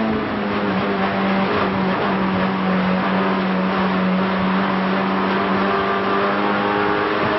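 Renault Clio race car's engine heard from inside the cockpit. Its note drops slightly just after the start, then holds a steady pitch through a long corner, and climbs again right at the end.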